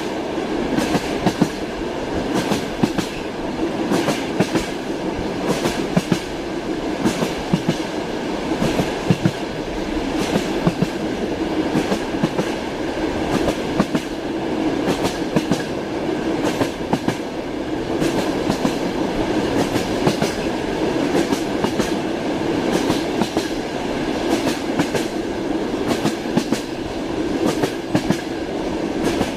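Train wheels clacking over rail joints: frequent sharp clacks over the steady rumble of a moving railway carriage.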